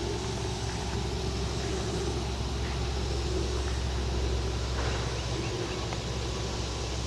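Steady low rumble with a constant hum underneath, like a running engine or machine, holding one level with no distinct events.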